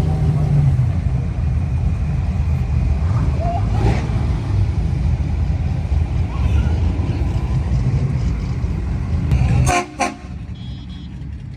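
Low, steady rumble of car engines and traffic cruising. Near the end a car horn toots twice in quick succession, and the rumble then falls away.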